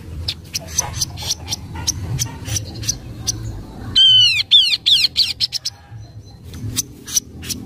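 Kaso-kaso bird (chestnut-capped babbler) calling: a string of short sharp chirps, broken about four seconds in by a loud, rapid run of arched whistled notes for about a second and a half before the chirps resume.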